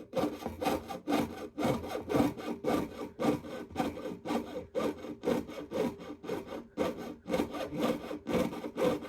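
Jeweler's saw blade cutting 20-gauge sterling silver sheet with steady, even up-and-down strokes, about three to four a second.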